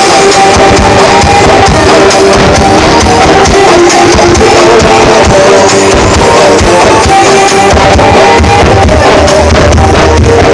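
Very loud music blasting from a 'sound horeg' parade sound system, with a steady beat and held melodic tones; the deep bass grows stronger near the end.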